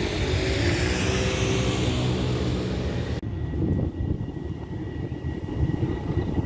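A passing tram, with its electric traction motors humming over running noise. About three seconds in, the sound cuts abruptly to a lower rumble with a thin steady high tone.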